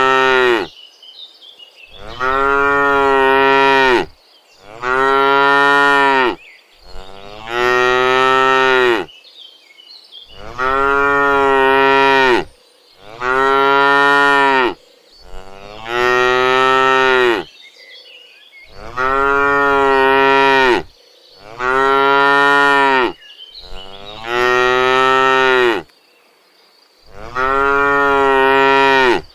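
Cattle mooing: a string of about eleven long, loud moos of roughly two seconds each, one after another with short pauses between.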